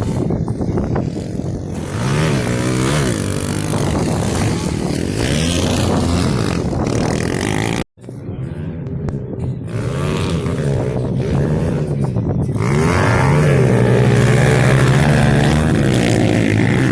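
Pit bike engines revving hard, the pitch rising and falling over and over as the throttle is worked. The sound breaks off for an instant about eight seconds in. Near the end it settles into a louder, steadier engine note.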